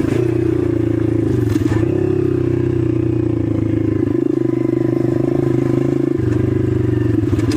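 An 8-horsepower 125 cc dirt bike engine running at a nearly steady pitch, held at a constant engine speed.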